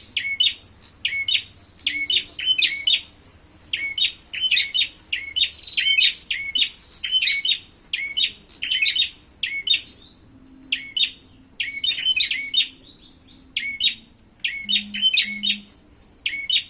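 Prenjak songbirds giving quick, sharp, high chirping calls in repeated short bursts with brief pauses between them. These are the agitated calls of prenjak fighting.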